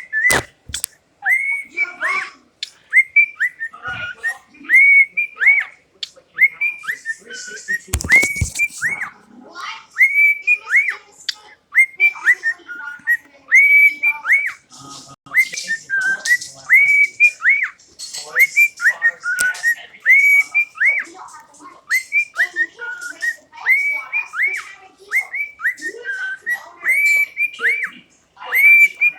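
Cockatiel whistling a repeated phrase: short notes that rise and then drop, coming again and again, with soft chatter in between.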